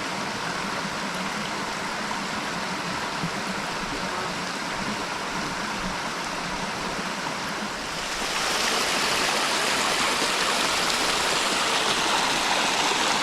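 Waterfall rushing steadily, a constant hiss of falling water that grows louder about eight seconds in.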